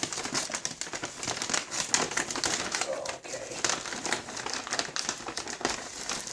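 Crinkling and rustling of a sealed takeout bag being opened and handled, a dense run of irregular crackles.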